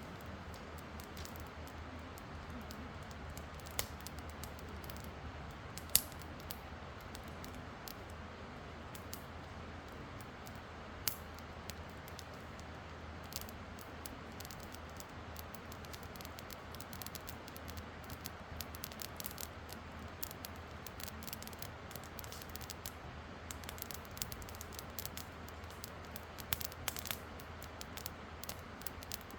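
Wood campfire crackling: scattered sharp pops and snaps over a steady low hiss, with the snaps coming thicker near the end.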